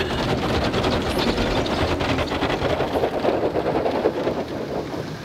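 Automatic car wash working over a car, heard from inside the cabin: spray and wash equipment drumming on the body in a dense, rapid patter that eases a little near the end.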